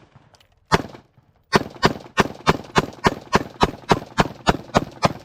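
Gunfire at a shooting range: a single shot, then after a short pause a steady string of about a dozen rapid shots, roughly three a second.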